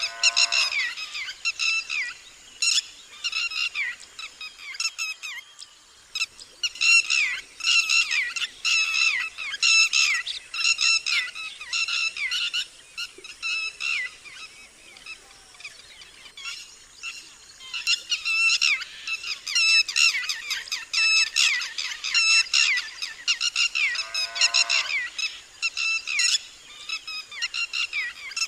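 Red-wattled lapwing alarm calling: loud, sharp, high notes repeated about twice a second in long bouts with brief pauses. A lower, falling call cuts in near the start and again about 24 seconds in.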